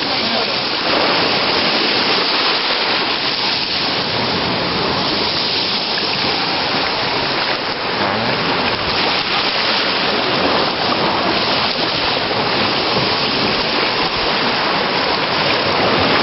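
Loud, steady rush of running water, an even hiss with no distinct splashes or strikes.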